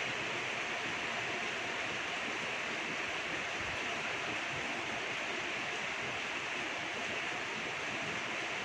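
Steady rainfall, an even hiss of falling drops with no change in strength.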